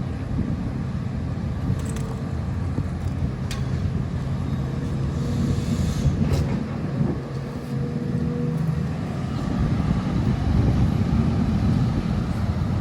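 Excavator's diesel engine running steadily as it works, with a few short sharp knocks.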